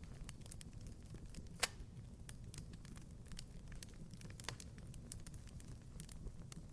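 Wood fire in a fireplace crackling: a low steady rumble of burning with scattered small snaps, and a sharp pop about one and a half seconds in and another about four and a half seconds in.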